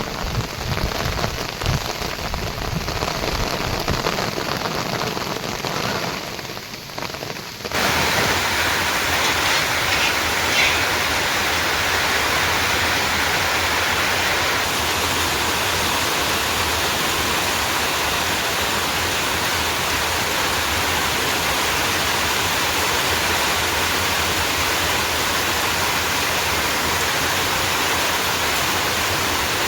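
Rain falling, with heavy drops pattering and thudding on a nearby surface. About eight seconds in it cuts abruptly to a louder, steady hiss of heavy rain.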